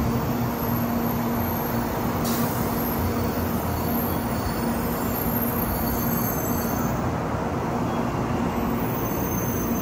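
A 700 series Shinkansen train standing at the platform, its on-board equipment giving a steady hum. A short hiss comes about two seconds in.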